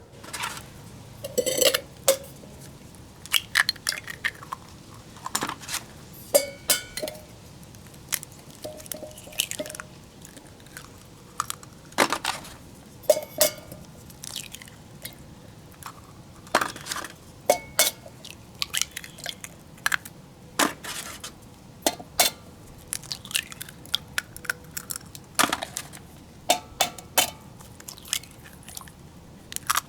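Irregular clinks, taps and knocks of utensils against stainless steel cookware during food preparation, some strikes ringing briefly.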